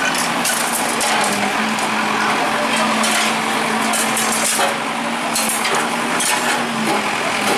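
Bulldozer breaking down a building: a continuous clatter and crunch of breaking and falling debris over the machine's steady engine hum.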